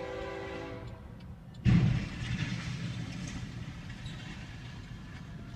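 The fading tail of a horn chord dies away in the first second. About 1.7 s in, a sudden loud low rumble begins and carries on steadily, as of a train passing.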